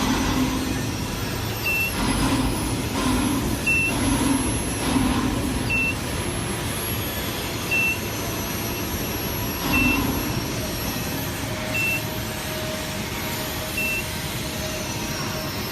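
A short, high electronic beep repeating about every two seconds over steady machinery and work-site noise, with some low rumbling swells.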